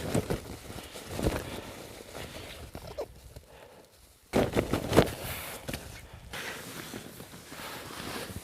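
Footsteps crunching and scuffing through snow, irregular, with a short lull a little past the middle followed by a louder cluster of steps.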